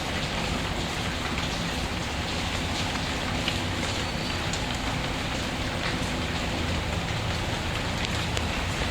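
Steady rain falling, an even hiss of drops, with a few faint sharp crackles scattered over it.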